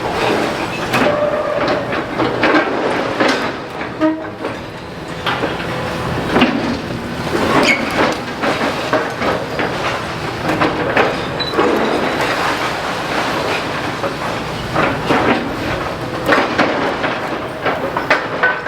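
Demolition excavator at work: a steady run of metallic clanks, knocks and crunching rubble over continuous machine noise, with a few brief squeals.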